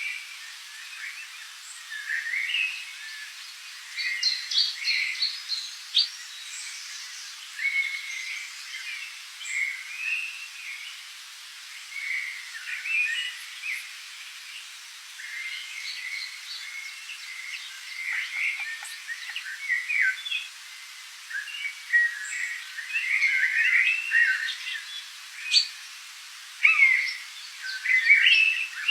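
Tropical forest birds calling and chirping, many short calls overlapping without a break and busiest near the end, over a faint steady hiss.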